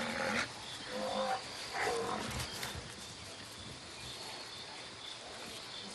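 Lions growling: a few short growls in the first two seconds, then only a faint background hiss.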